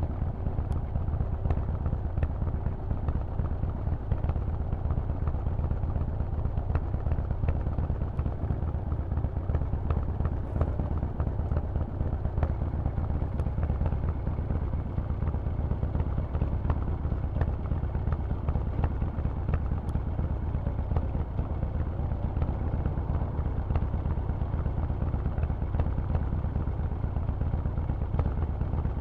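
Harley-Davidson Forty-Eight's 1200 cc V-twin running through a Vance & Hines aftermarket exhaust while being ridden, its low exhaust note holding steady with no revving up or down.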